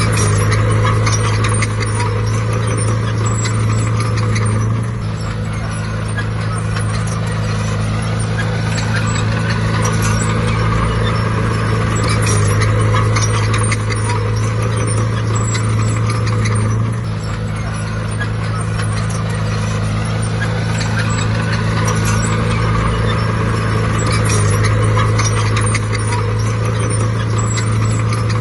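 Bulldozer's heavy diesel engine running hard, stepping louder and quieter every six seconds or so, with a steady clatter of its steel tracks.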